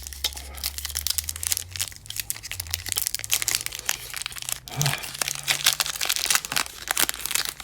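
Foil booster-pack wrapper crinkling and tearing as it is opened by hand, a dense run of sharp crackles. A brief falling tone sounds about five seconds in.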